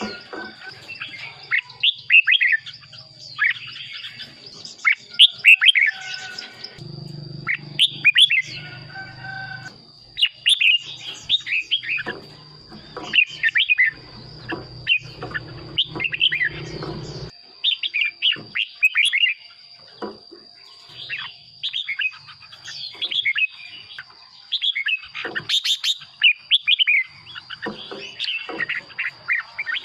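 Red-whiskered bulbul singing a run of short, warbling phrases, one after another every second or two. A thin steady high whine runs underneath, and a low hum comes in about seven seconds in and stops about ten seconds later.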